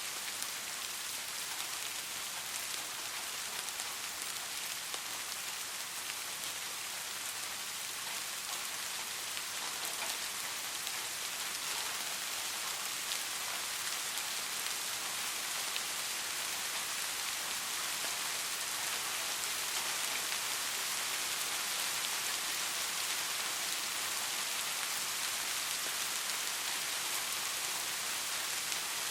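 Steady soft rain falling, an even hiss of many fine drops with no thunder.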